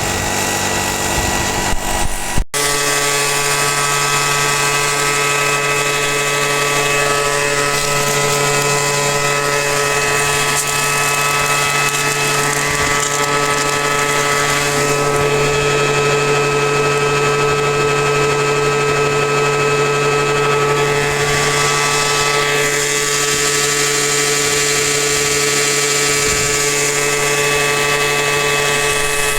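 Small gasoline engine of a dry washer running steadily at a constant speed, with a sharp break about two and a half seconds in.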